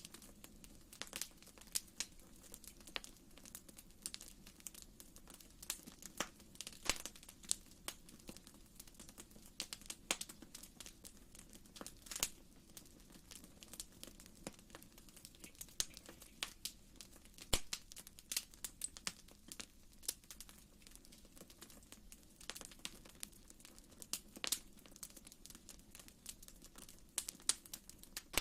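Wood fire crackling in a fireplace: irregular sharp pops and snaps, several a second, over a faint steady background.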